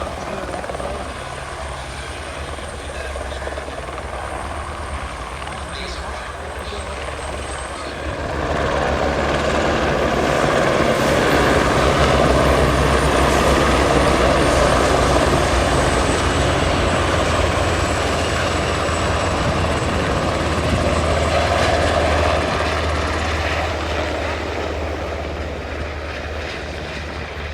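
Helicopter flying past, its rotor and engine sound growing louder about a third of the way in, loudest around the middle, then slowly fading.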